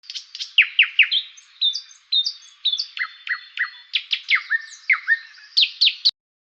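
Bird chirping: a rapid series of short, high chirps that each sweep downward in pitch, stopping about six seconds in.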